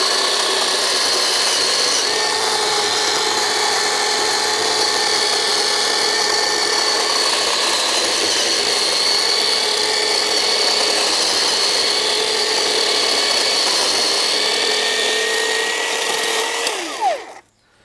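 Black & Decker GKC3630L20 36 V cordless electric chainsaw cutting through a log with a steady motor whine. About seventeen seconds in, the whine falls in pitch as the saw winds down and stops.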